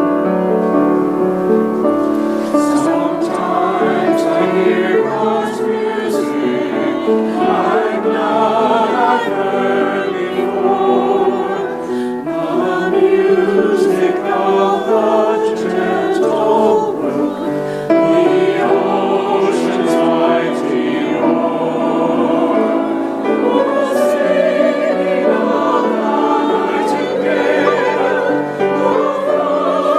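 A church choir singing.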